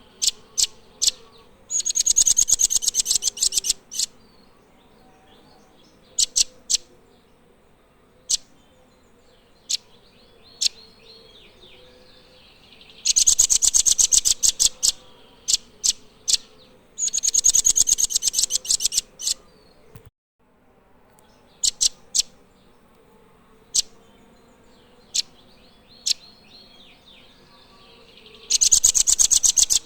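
Nuthatch giving very fast, high trills of sharp notes in bursts of about two seconds, four times, with single sharp chips in between.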